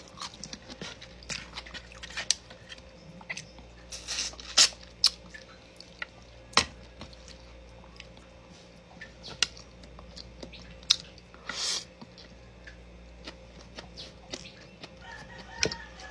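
Eating with bare hands: scattered sharp clicks and taps of chewing, lip smacks and fingers picking food off a plate, over a low steady hum. A faint short pitched call comes near the end.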